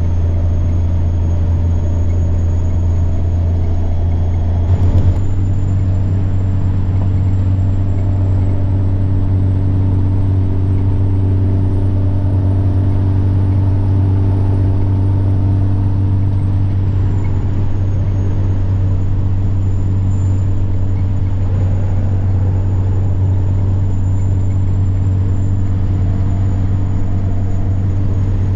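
Semi-truck diesel engine droning steadily under way, with a thin high turbocharger whine that climbs slowly and then drops back past the middle. About five seconds in there is a short burst of noise, and the engine note shifts slightly.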